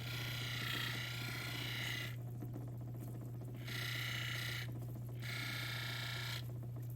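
Lapidary wheel machine running with a steady motor hum, while an opal is pressed against a spinning grinding or polishing wheel in three spells, each giving a higher grinding whine that stops when the stone is lifted away.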